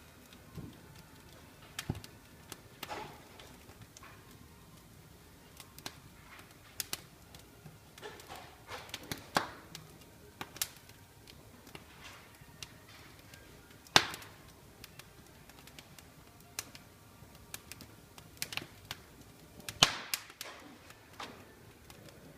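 Fire burning in a fireplace, crackling with irregular sharp pops over a low steady background. There is a loud pop a little past the middle and another near the end.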